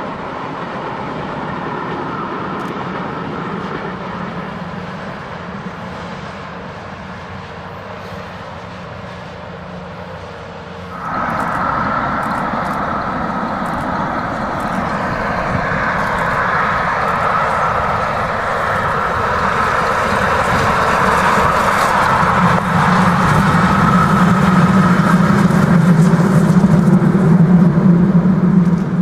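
A passenger train running past on the line; then, after a cut about 11 s in, a short historic train approaching and growing steadily louder toward the end.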